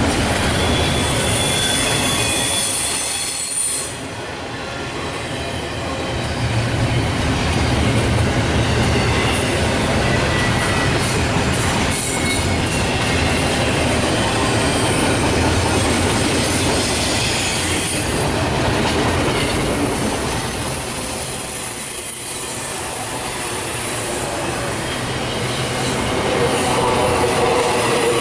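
Double-stack intermodal container train rolling past: a continuous rumble and rattle of the well cars over the rails, with thin, high wheel squeal now and then.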